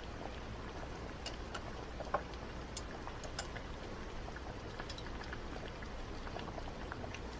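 Steady low background hiss with scattered faint ticks and clicks, one a little louder about two seconds in.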